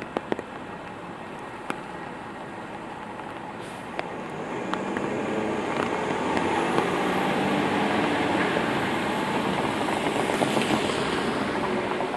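A vehicle approaching on a rain-wet street, its tyre hiss and engine growing louder from about four seconds in and staying loud to the end, over steady rainfall. A few sharp drip taps sound in the first seconds.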